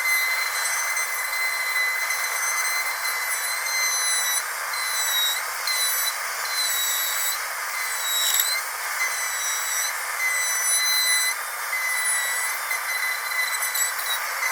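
Dental drill running with a steady high-pitched whine over a hiss, its pitch dipping briefly a few times.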